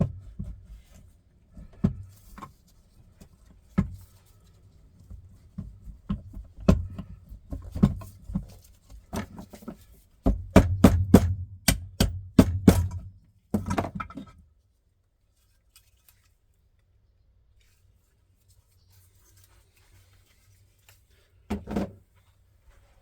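Irregular knocks, clicks and clinks, as of tools and small motorcycle engine parts being handled and set down on a workbench, with a low hum underneath. The knocks come thickest about ten to thirteen seconds in, stop about fourteen seconds in, and one more knock comes near the end.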